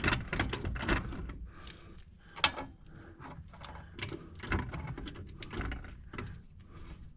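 A quick run of mechanical ratcheting clicks for about the first second and a half, then scattered metallic clicks and clunks as the Twingo's rear beam is lifted and the new rear shock is worked into place.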